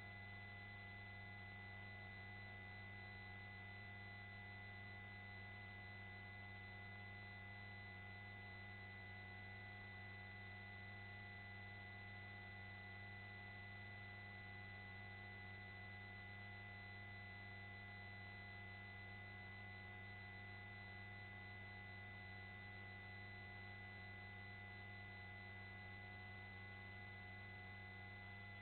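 Near silence: a faint, steady hum with a few constant tones on the helicopter's intercom audio, its microphones switched off.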